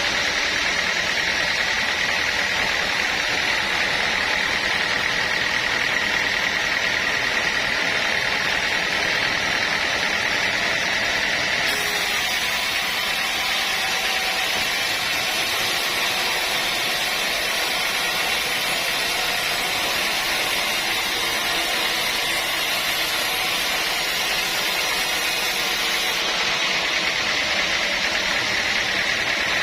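Sawmill saw running steadily, a continuous hissing machine noise with a band of high pitch; for a stretch in the middle, from about twelve to twenty-six seconds in, a brighter hiss is added on top.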